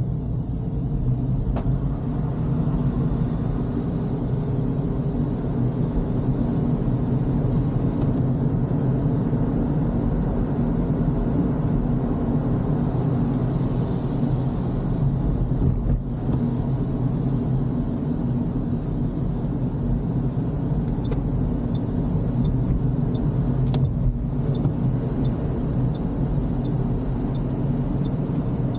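Toyota Corolla driving on a wet road, heard from inside the cabin: a steady low rumble of engine and tyre noise. Near the end a light regular ticking joins in, about two to three ticks a second.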